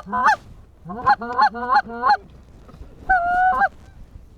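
Goose honking: a short call, then a quick run of about six clipped clucks, then one longer honk of about half a second near the end.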